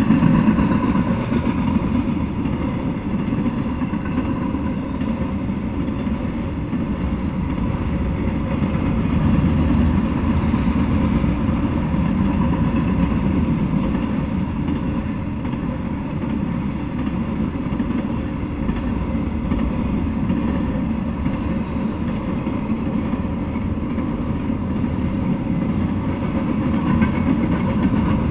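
Intermodal freight train cars rolling past, a steady low rumble of steel wheels on the rails.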